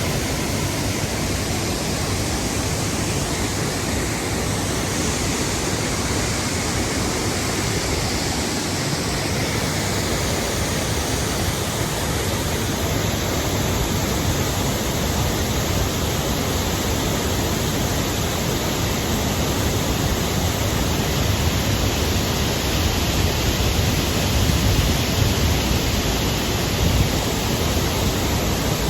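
Waterfall rushing, a steady loud noise of falling water that barely changes.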